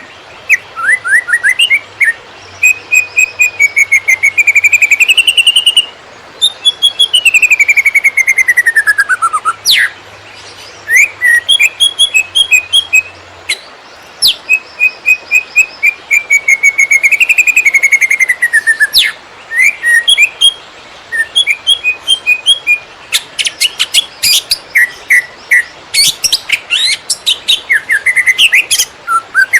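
Cucak ijo (green leafbird) singing a loud, almost unbroken 'konslet' song. Varied whistled phrases with long falling and rising glides mix with quick runs of repeated chirps, and a rapid clicking burst comes about two-thirds of the way in.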